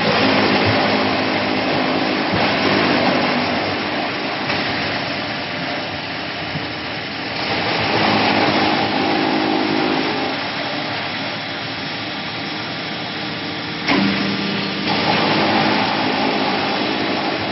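A YF-70 square silage baler running. Its noise swells and eases in cycles about every seven seconds, with a hum coming in during each louder spell and a sharp knock late on.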